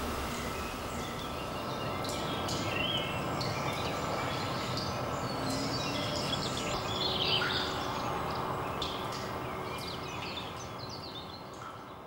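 Steady outdoor background noise with scattered short, high bird chirps and peeps, fading away near the end.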